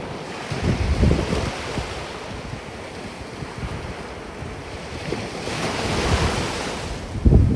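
Sea waves washing onto a sandy beach, with strong wind buffeting the microphone. Low rumbling gusts come about a second in and again near the end, and a wave's wash swells up about two-thirds of the way through.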